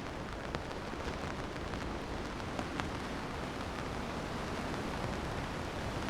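Steady rainfall, with scattered sharp ticks of individual drops striking close by.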